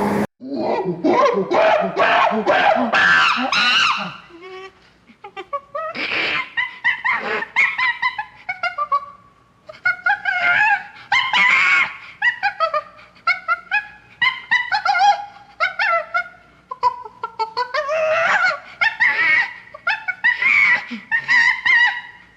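A rapid series of loud, ape-like hoots, chatter and shrieks whose pitch slides up and down, coming in bursts with short breaks between them.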